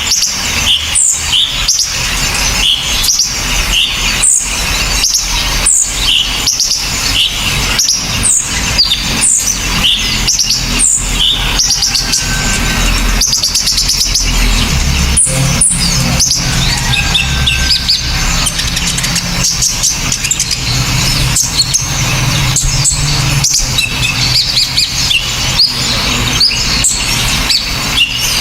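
A recording of small songbirds played for song tutoring: a dense, rapid stream of sharp, harsh high chirps and short down-slurred notes, over a low steady hum.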